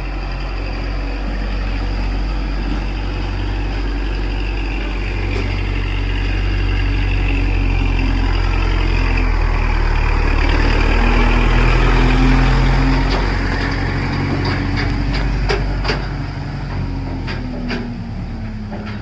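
Kubota tractor's diesel engine running steadily, getting louder and working harder around ten to twelve seconds in, then easing off, with a string of sharp knocks or rattles near the end.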